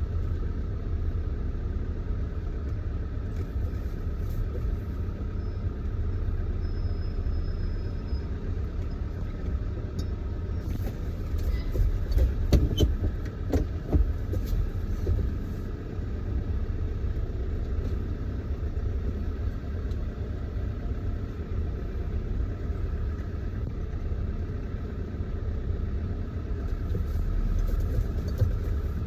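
Steady low rumble of a vehicle's engine and running noise heard from inside the cab. A short cluster of sharp clicks and knocks comes about twelve to fourteen seconds in.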